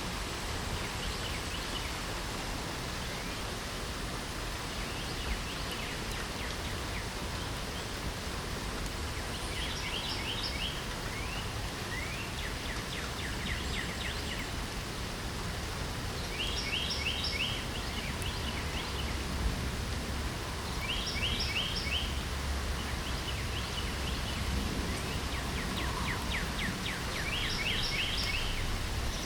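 Steady light rain hiss with a songbird singing short, rapid phrases of quick notes, repeated several times a few seconds apart.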